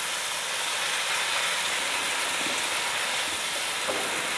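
Onion-tomato masala sizzling steadily in a frying pan as it is stirred with a silicone spatula.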